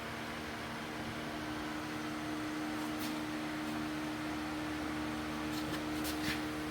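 Steady mechanical hum with a hiss of background noise, and a few faint light clicks about halfway and near the end.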